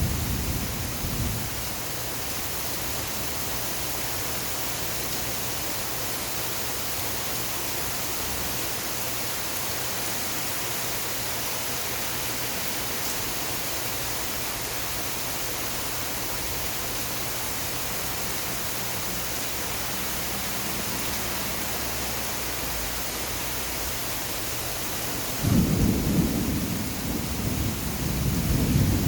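Steady rain, heard as an even hiss. A louder low rumble is there at the very start and sets in again a few seconds before the end.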